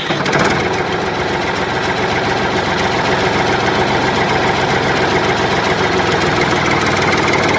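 Small engine running steadily at a constant speed, with a fast, even pulsing.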